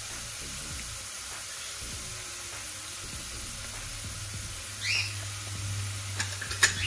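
Onions and ginger-garlic paste frying in oil in a pan, a steady sizzle. About five seconds in there is a brief squeak, and near the end a few sharp clicks, the loudest of them the loudest moment.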